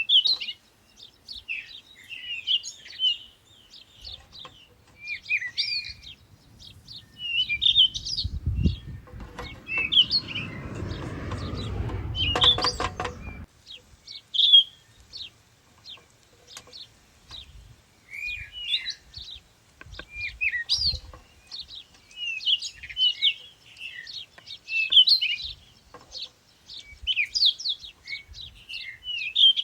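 Wild songbirds chirping and calling, with many short, quick chirps and trills. From about eight seconds in a low rumble rises under them and cuts off suddenly about five seconds later.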